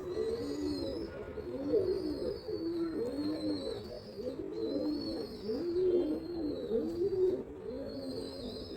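Several domestic pigeons cooing at once, their low rising-and-falling coos overlapping without a break.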